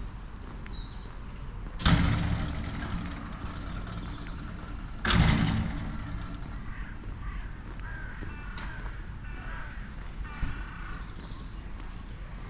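Two loud, harsh bird calls about three seconds apart, each fading quickly, with faint chirping of small birds and weaker calls further off in between.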